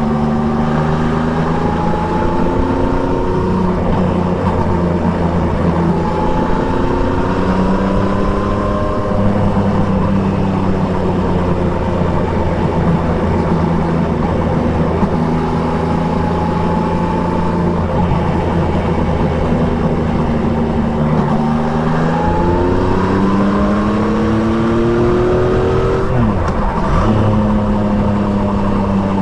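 Triumph Trident 660's inline three-cylinder engine, fitted with an Akrapovic exhaust, heard from on the moving bike. It pulls up through the revs three times, each climb cut by a sudden drop in pitch at a gear change, and runs at a steady speed in between.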